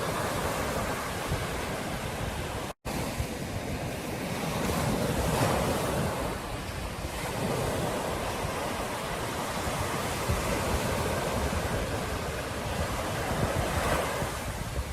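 Ocean surf on a beach, waves breaking and washing in a steady rush that swells and eases, with wind buffeting the microphone. About three seconds in, the sound cuts out completely for an instant.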